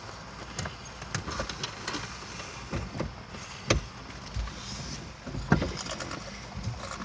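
Irregular clicks, knocks and rustling from objects being handled inside a parked van, with the loudest sharp clicks about three and a half and five and a half seconds in.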